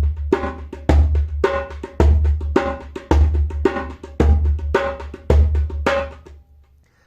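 Djembe played by hand in a repeating rhythm: a deep bass stroke about once a second, with lighter medium and high tone strokes between. It stops shortly before the end.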